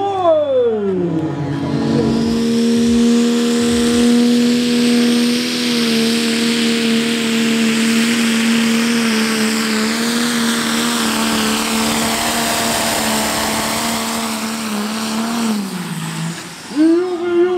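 Pro Stock pulling tractor's turbocharged diesel engine running flat out under load: the engine note drops sharply in the first two seconds as it lugs down, holds steady for a long stretch over a high hiss, sags again near the end, then revs high once more.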